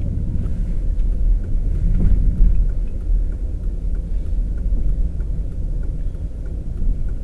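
Steady low rumble of a vehicle driving, with engine and tyre noise heard from inside the cabin.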